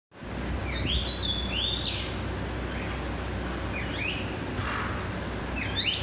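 Birds giving short whistled calls that glide up in pitch, singly or in quick pairs every second or two, over a steady low rumble.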